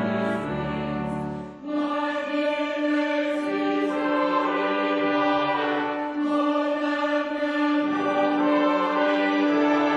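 Choir and orchestra performing a slow Christmas piece in sustained chords; after a short break about a second and a half in, a long note is held through most of the rest.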